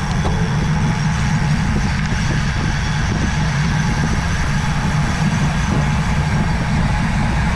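Steady low rumble of wind on the microphone and tyre and road noise from a road bike riding along.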